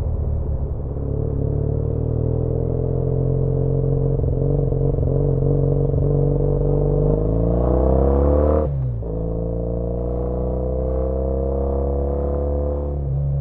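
2013 Triumph Bonneville T100's air-cooled 865 cc parallel-twin engine, fitted with a British Customs Sleeper Pro exhaust, pulling under throttle with rising pitch. It changes up a gear with a sudden drop in pitch about nine seconds in, pulls again, then eases off near the end.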